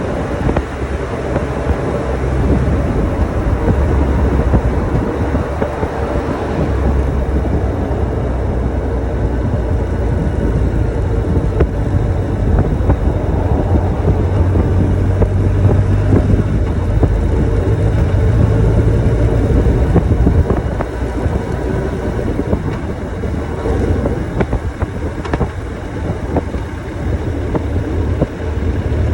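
Motorcycle engine running steadily, getting louder a few seconds in and easing off about twenty seconds in.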